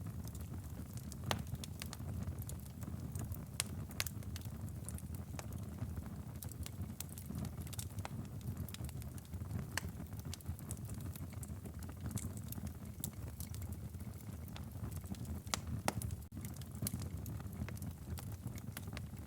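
Wood fire crackling in a fireplace: irregular sharp pops and snaps over a steady low rumble of the flames, with a few louder pops scattered through.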